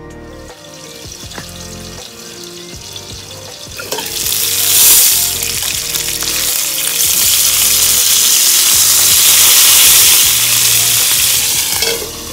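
Hamburger steak patties sizzling loudly in a skillet. The sizzling starts about four seconds in and drops off near the end. Background music plays underneath.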